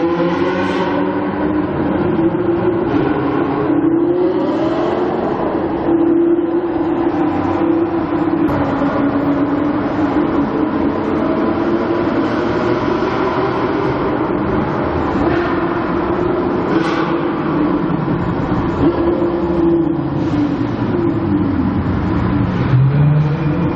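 Supercar engine running loudly and accelerating, its pitch rising in several sweeps, the clearest a little after the start and near the end.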